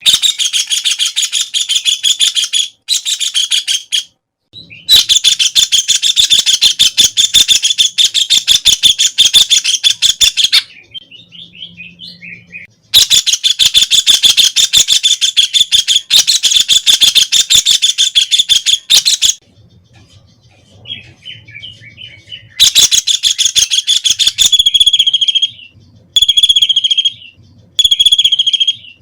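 White-throated kingfisher calling with loud, rapid trills: long bouts of fast repeated notes lasting several seconds, broken by short pauses, then a few shorter phrases of about a second each near the end.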